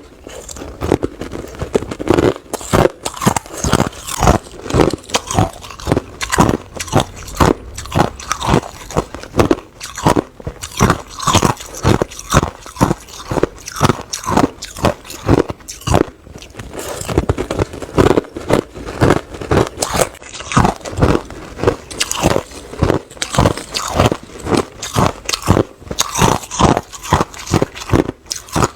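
Hard ice being bitten and chewed close to the microphone: a steady run of sharp, crisp crunches, about three a second.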